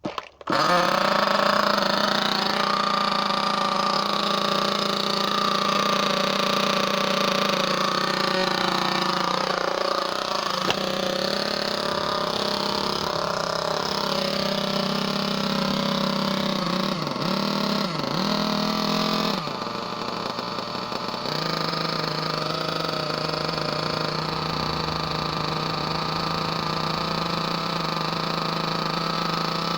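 Small two-stroke nitro glow engine of an Ansmann Virus 21 RC car running, starting about half a second in with a steady high buzz. Its pitch dips briefly a few times past the middle, then settles back to a steady run.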